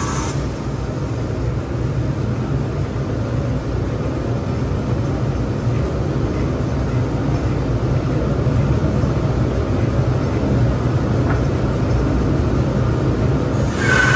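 A shop machine running steadily with a low, even rumble and no cutting whine.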